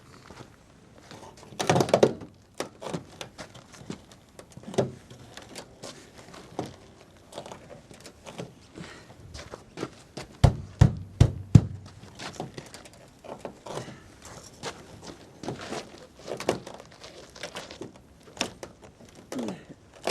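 Knocking and thumping at a pickup truck's frozen-shut door: scattered knocks and thuds, with a loud knock about two seconds in and a run of about five heavy thumps about halfway through.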